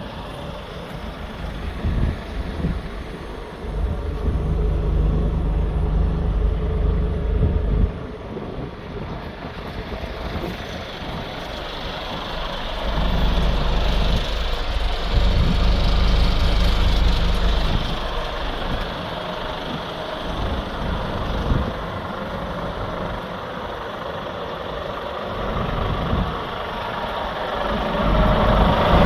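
Heavy truck's diesel engine running at a low, steady speed. It grows louder twice: from about four seconds in until it drops off suddenly at eight, and again from about thirteen to eighteen seconds in.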